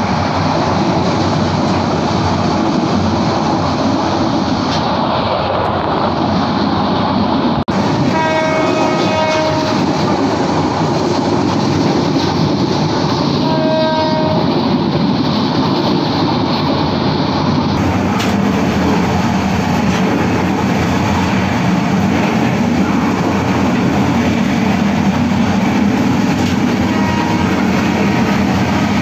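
Steady running noise of the Kurigram Express passenger train heard from on board, with the train's horn sounding twice, about 8 seconds in and again about 14 seconds in.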